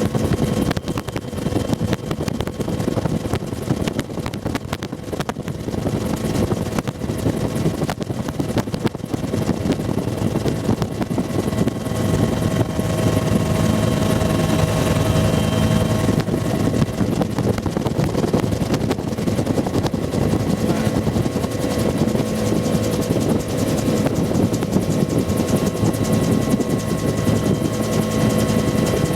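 Bell UH-1 "Huey" helicopter in flight, heard from a gunner seat in the cabin: a loud, steady din of the two-blade main rotor and turbine, with a constant whine running through it. It gets slightly louder about eight seconds in.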